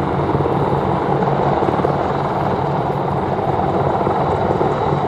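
Military helicopters in flight, their rotors and turbine engines running steadily: a dense, even rush of noise over a constant low hum.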